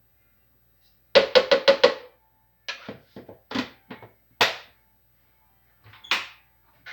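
A run of sharp knocks and taps on hard objects: five quick ones about a second in, then scattered single knocks.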